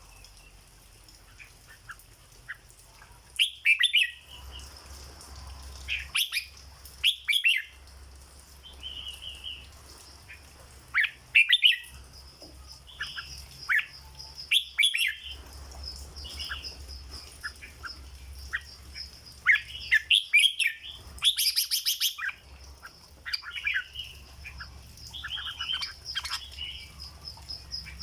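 Red-whiskered bulbul singing short, loud, warbling phrases, repeated every one to three seconds. Behind them runs a steady high-pitched buzz and a low hum.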